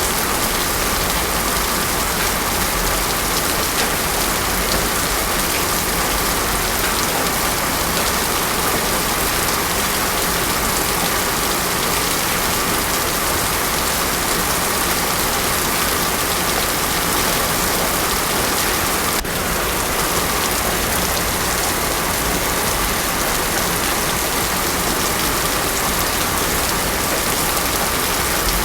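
Heavy rain falling steadily on a road surface, a dense even hiss with no thunder.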